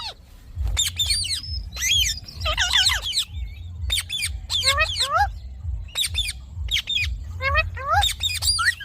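Indian ringneck parakeet calling: a string of short, sharp squawks with quick up-and-down pitch sweeps, coming in clusters. A low rumble runs underneath from about half a second in.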